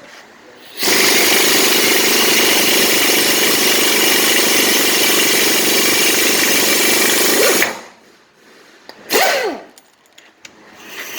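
A power tool hammers steadily for about seven seconds, driving a ball joint press to force the stiff old ball joint out of a Ford F-250 steering knuckle. A brief loud burst of noise follows about nine seconds in.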